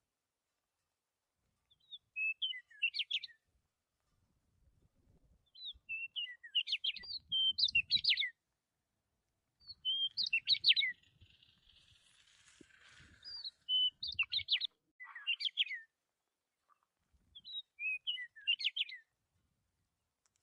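A small songbird singing in five short, separate phrases of quick high chirping notes, with pauses between the phrases.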